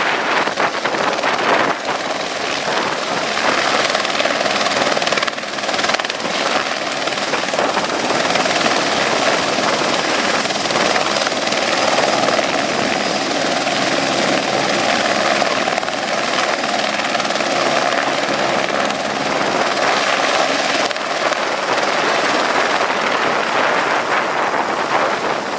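AS355 Ecureuil 2 twin-engine helicopter running loudly and steadily during takeoff: dense rotor and engine noise with a faint steady whine.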